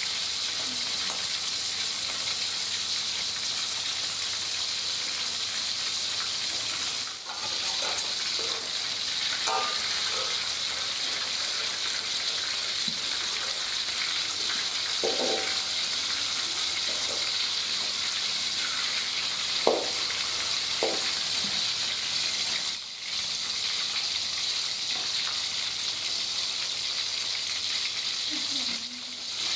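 Chicken pieces frying in hot oil in a wok, a steady high hiss of sizzling with a few short knocks of a spatula against the pan.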